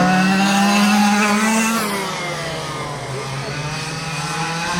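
Several quarter-scale RC super trucks' small engines running on the track, more than one pitch at once. Engine pitch drops off about two seconds in and climbs again near the end as they come back on the throttle.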